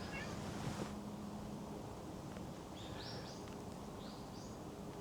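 Quiet outdoor ambience with a few short, high bird chirps about three to four and a half seconds in.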